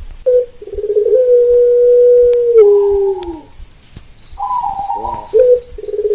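Zebra doves (perkutut) and another night bird calling in a repeating cycle. A long steady low note is held for about two and a half seconds and drops away at its end, with short fluttering, rolling coos at a higher pitch in between. The pattern starts again near the end.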